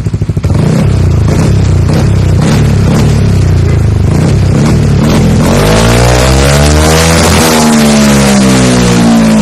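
Yamaha NMAX scooter's single-cylinder engine running through an Akrapovic aftermarket exhaust, held at a raised steady speed. About two-thirds of the way through it is revved higher, then the pitch drops back.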